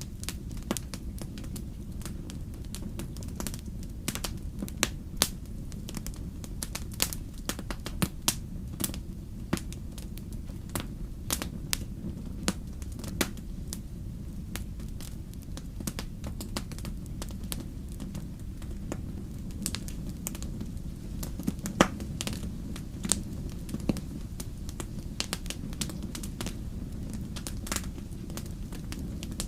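Wood campfire burning with a steady low rumble and irregular sharp crackles and pops from the burning logs, one louder pop about two thirds of the way through.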